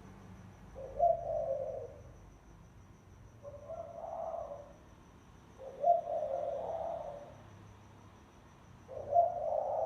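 Spotted dove cooing: four separate coo phrases, each about a second long, a few seconds apart, the territorial call used to lure other doves.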